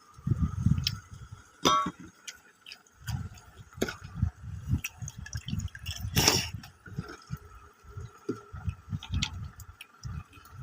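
Close-up eating sounds of a person taking watery pakhala rice: wet chewing, squelching and smacking in an uneven rhythm, with sharp little clicks and one louder, noisier mouthful about six seconds in. A faint steady hum runs underneath.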